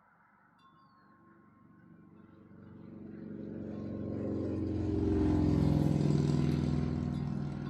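A motor vehicle engine passing by. It grows louder over several seconds, is loudest about six seconds in, then starts to fade.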